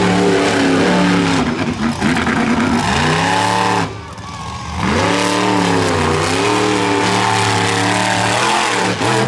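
Monster truck engine at full throttle, revving hard. About four seconds in it briefly drops off, then climbs back up to steady high revs.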